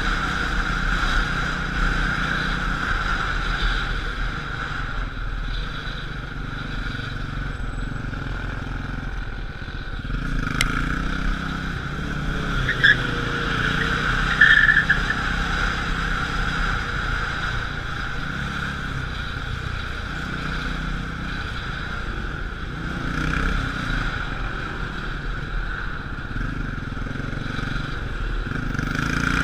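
Motorcycle engine running, its revs rising and falling as it rides. Two brief high-pitched chirps come about halfway through.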